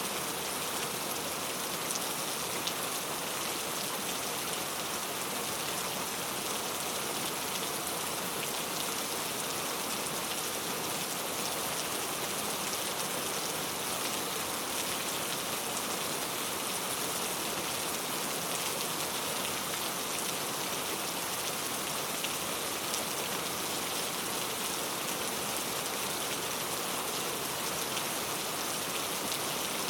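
Steady rain falling, a dense, even hiss with fine drop ticks on a surface.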